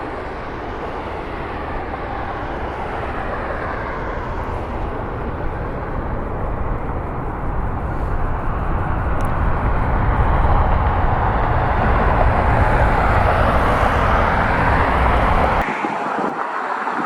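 Twin-engine Boeing 767 freighter on approach, its jet engine noise swelling to a peak about ten to fifteen seconds in. The low rumble then cuts away suddenly near the end.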